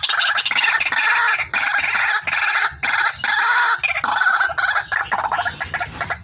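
Female white-breasted waterhen (ruak-ruak) calling in a loud, unbroken series of rapid, harsh pulsing calls with only brief breaks, as used to lure the birds.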